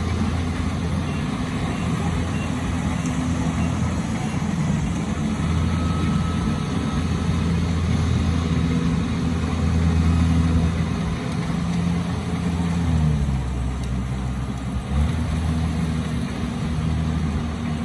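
Rice combine harvester engine running steadily, its pitch dropping about two-thirds of the way through and picking back up a couple of seconds later.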